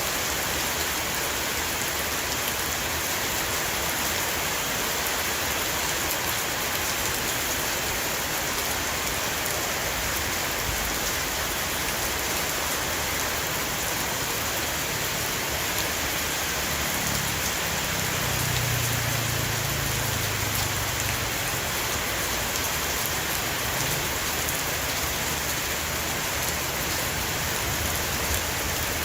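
Heavy rain shower falling steadily on a roof, a dense even patter. About two-thirds of the way through, a low rumble swells and fades for a few seconds.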